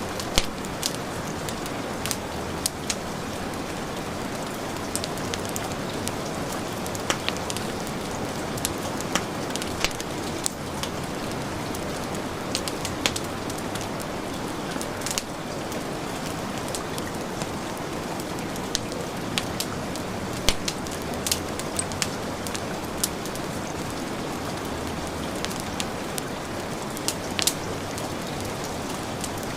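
Steady heavy rain with a wood fire crackling over it: sharp, irregular pops and snaps scattered through the even rush of the rain.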